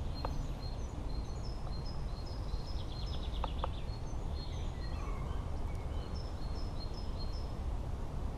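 Several small birds chirping and singing, with short high notes repeating throughout and a quick trill about three seconds in, over a steady low rumble.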